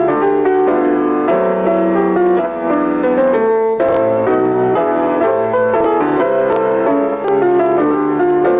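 Piano-like keyboard music: a melody and chords played with many notes changing in quick succession.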